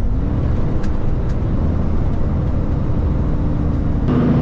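Cummins diesel engine of a Kenworth K220 cabover road train, heard from inside the cab, running steadily with a low drone and a held tone. A little before the end the tone drops and the sound gets louder.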